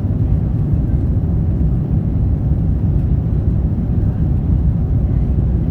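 Airbus A330 engine and airflow noise heard inside the cabin: a steady, low rumble.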